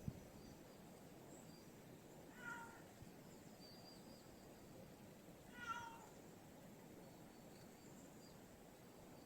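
A cat meowing twice, faint and short, about two and a half and five and a half seconds in, over a low steady hiss.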